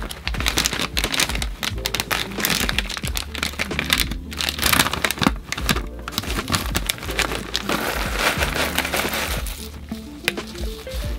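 Plastic snack packaging crinkling and crackling as it is handled, over background music.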